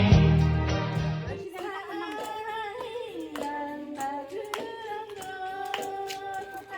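Loud music fades out over the first second and a half, then a single voice sings a slow melody with scattered hand claps.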